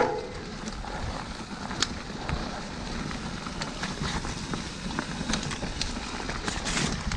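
Bike riding over a dirt trail: a steady rush of wind and tyre noise, with frequent clicks and rattles from the bike over the rough ground and a sharp knock right at the start.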